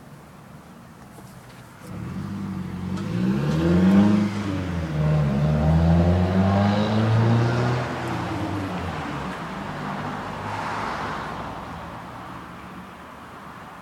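A car engine accelerating, starting suddenly about two seconds in: its pitch climbs, drops once and climbs again, then falls and fades away.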